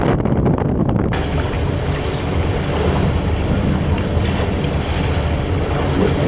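Steady wind noise on the microphone and rushing water over a low, steady engine hum, as from a moving boat. The sound changes abruptly about a second in, where a brighter hiss opens up.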